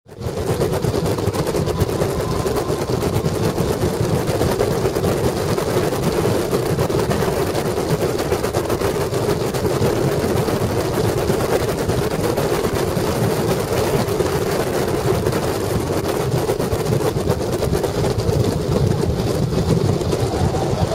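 Onboard sound of a Caterham Academy car's Ford Sigma 1.6 four-cylinder engine running hard on track, at a fairly steady level, mixed with wind noise across the open cockpit.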